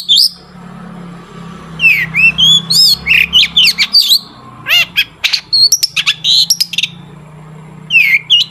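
Long-tailed shrike (cendet) singing rapid bursts of sharp chirps, whistles and harsh notes, with pauses of one to two seconds between the bursts. A low hum is heard during the pauses.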